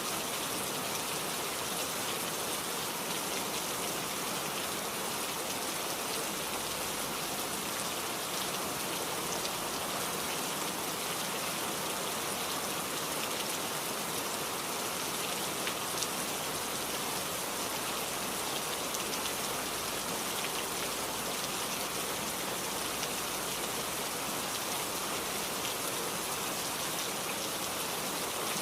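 Heavy rain falling steadily, a dense hiss of drops with fine individual drop ticks on a hard surface.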